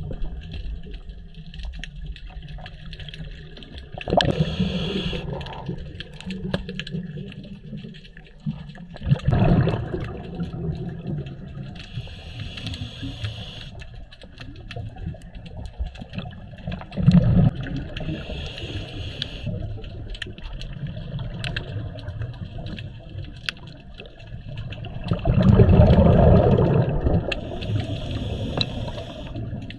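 Scuba diver breathing through a regulator underwater. Each inhale brings a hiss, and each exhale a gush of rising bubbles. The breaths come about every seven to eight seconds, with the longest bubble gush near the end.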